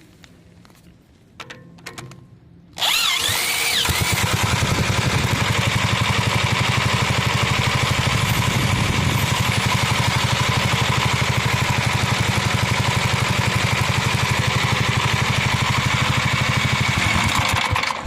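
An old Gravely tractor's engine being cranked by a corded electric drill: about three seconds in, the drill whines up and the engine catches almost at once. It then runs steadily with an even, rapid firing beat until it cuts off near the end.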